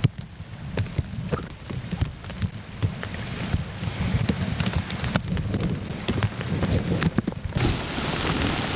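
Heavy hurricane rain: many sharp drops tap close by over a low wind rumble on the microphone, and a louder steady hiss of rain sets in near the end.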